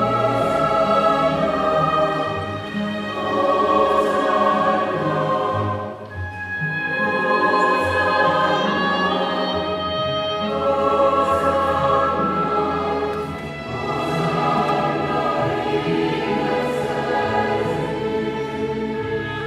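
Mixed choir singing with chamber orchestra in a Mass setting, sustained sung phrases with a brief dip in level about six seconds in.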